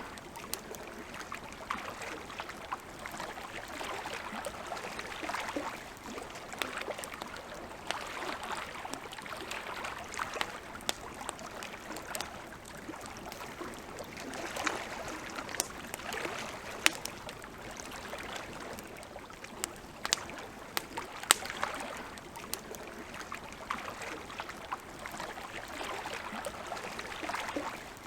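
Campfire crackling, with frequent sharp pops and snaps of burning wood at irregular intervals. Underneath is a soft wash of water lapping at the shore that swells and fades every couple of seconds.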